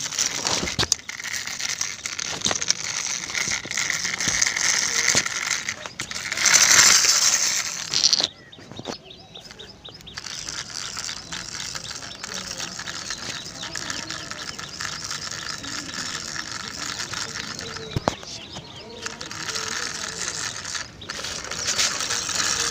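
Toy tractor's plastic gears and wheels rattling and clicking like a ratchet. The rattle is loudest from about six to eight seconds in, then goes on more quietly.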